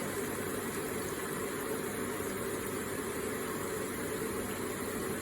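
Water running steadily through an electric water feature, a continuous, even trickling rush with no breaks.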